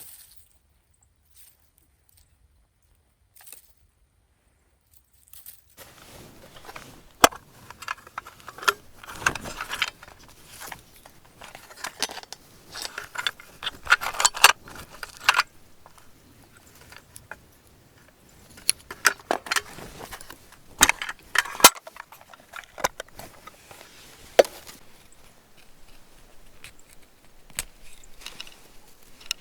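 Near silence for about six seconds, then light metal gear being handled: irregular sharp clinks and clicks with rustling.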